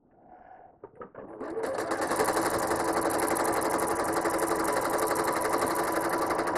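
Home sewing machine stitching a quilting line along a wave ruler with a ruler foot. After a few light handling clicks it speeds up about a second in and runs steadily at a fast stitch rate, stopping sharply at the end.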